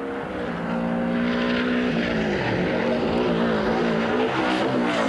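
Rally car engine at high revs, getting louder as it approaches. The note holds steady for about two seconds, then rises and drops again and again as the car is shifted and the throttle is worked.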